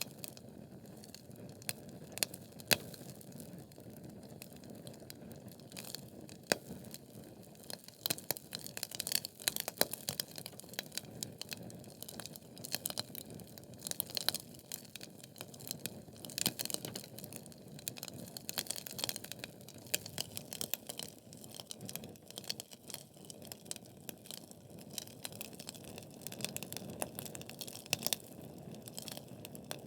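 Wood fire burning in a fireplace: logs crackling and popping at irregular intervals over a soft, steady hiss of flames, busiest in the middle.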